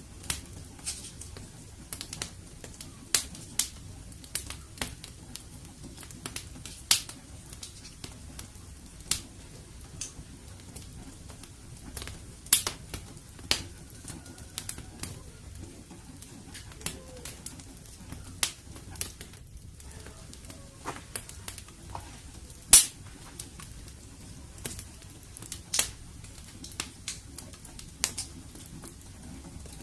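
Wood fire in a fireplace crackling: irregular sharp pops and snaps over a low steady rush of the flames, with one especially loud pop about three-quarters of the way through.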